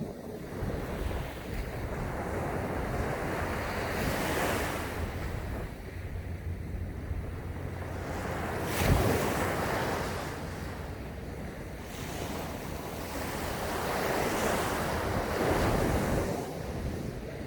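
Sea waves breaking on a sandy beach, the hiss of surf swelling and fading in several surges, one breaking more sharply about nine seconds in. Wind buffets the microphone with a low rumble.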